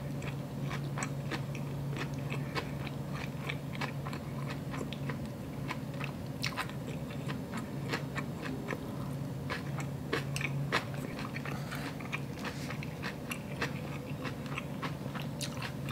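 A person chewing a big mouthful of inari sushi, rice stuffed in a sweet fried tofu pouch with cucumber on top: a constant run of small, irregular wet chewing clicks and smacks, over a steady low hum.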